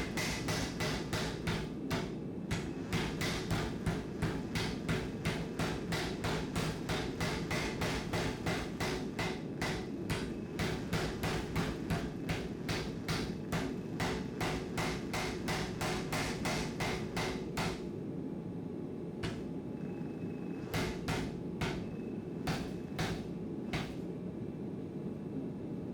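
Hand hammer striking hot steel on an anvil in a steady run of blows, about two to three a second, slowing to a few scattered strikes about two-thirds of the way through. A steady low rumble runs underneath.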